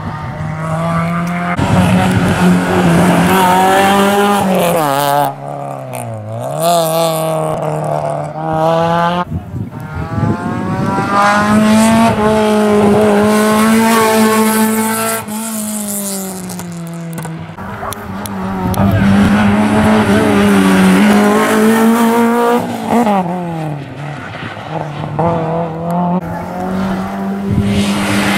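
Rally car engine under hard acceleration through a stage, its pitch climbing through each gear and dropping sharply at the shifts and lifts, with no break.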